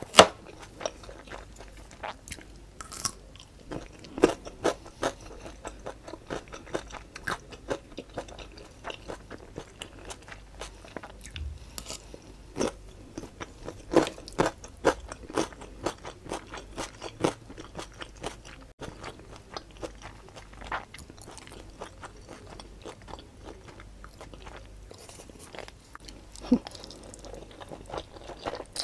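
Close-miked eating sounds: a person chewing and smacking on Samyang jjajang black bean instant noodles, with many short irregular clicks and smacks.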